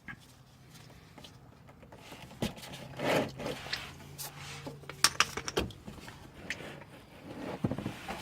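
An oil filter being unscrewed by hand and handled under a car: scattered scrapes, rubs and light knocks, with a sharper cluster of clicks about five seconds in. A faint low hum runs underneath until a little past the middle.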